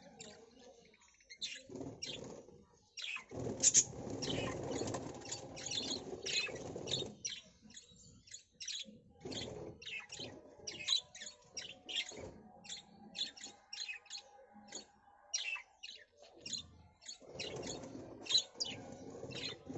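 Bee-eater giving a long run of short, high chirps, several a second. Stretches of low rumbling noise come in about three seconds in and again near the end.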